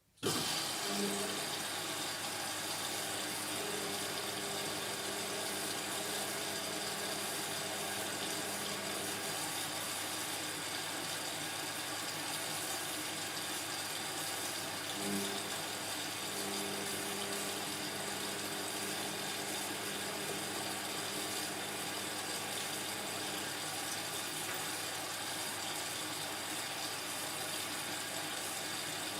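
Indesit washing machine taking in water: the flow starts suddenly and rushes in steadily, with a low hum that comes and goes twice.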